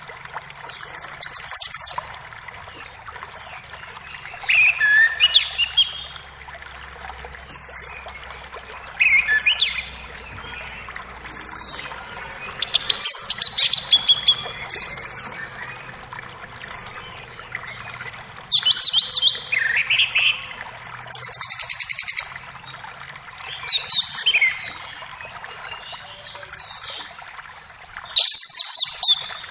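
Forest birds singing. One bird repeats a short, high call about every two seconds, others call in between, and a rapid buzzy trill comes about two-thirds of the way through. A faint steady creek runs beneath.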